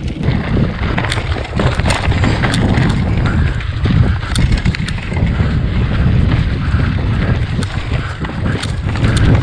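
Wind buffeting the microphone of a camera on a moving mountain bike, with tyre rumble and scattered sharp clicks and rattles from the bike over rough ground.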